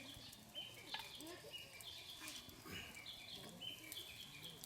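A chorus of short, high chirping calls from wild animals, repeating in little stepped runs throughout over quiet outdoor ambience.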